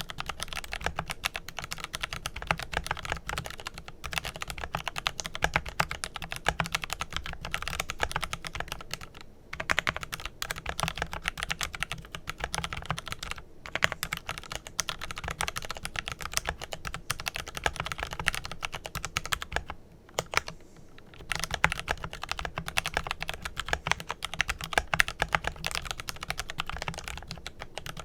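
Steady fast typing on a Glorious GMMK Pro mechanical keyboard with lubed Kailh Pro Purple tactile switches and Glorious GPBT keycaps: a dense run of key clacks, broken by brief pauses about nine and thirteen seconds in and a longer one of about a second around twenty seconds.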